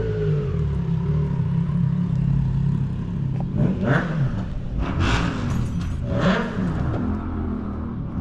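Motorcycle engine running steadily, then blipped three times, each rev rising and falling quickly, about four, five and six seconds in.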